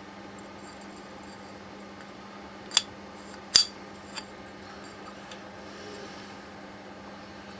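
Two sharp metallic clinks a little under a second apart, then a softer third, as metal parts are handled, over a steady low hum.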